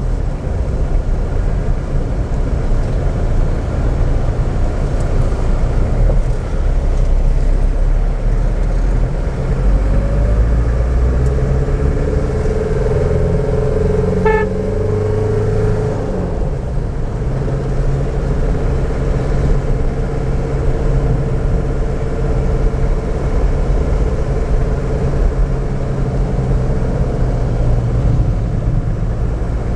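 A car driving through town traffic, its engine and road noise heard from inside the car. A held tone sounds for a few seconds about halfway through.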